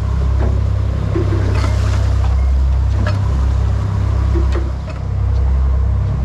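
Fishing boat's engine running steadily under way, a loud low drone, with a few light knocks and clicks on deck.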